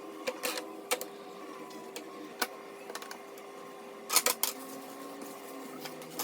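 Scattered light clicks and knocks, with a quick cluster of them about four seconds in, over a steady hum.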